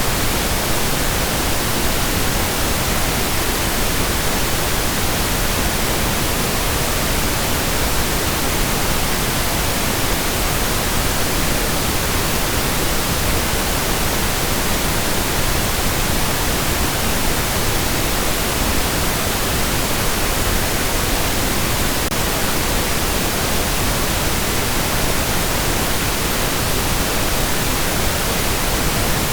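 Steady synthetic pink noise: an even, unchanging hiss with no breaks or changes.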